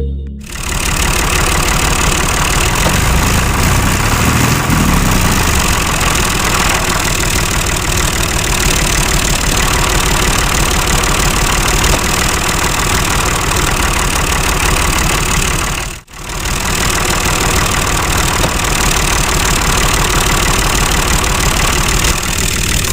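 A small motor-driven machine running steadily with a dense, fast rattle, broken off briefly about sixteen seconds in.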